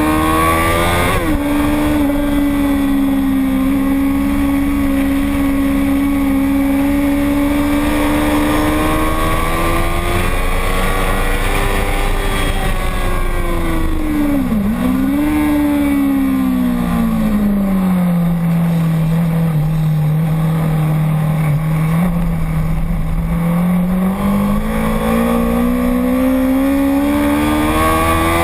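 Racing motorcycle engine running continuously while lapping, its pitch following gear changes and throttle. There is a sharp drop about a second in, a quick dip and recovery about halfway through, a long lower stretch, and a rise again near the end.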